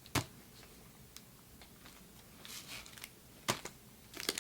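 Handling of Pokémon trading cards and a foil booster pack: a few sharp clicks and taps with a soft rustle between them, then the crackly crinkling of the pack's foil wrapper starting near the end.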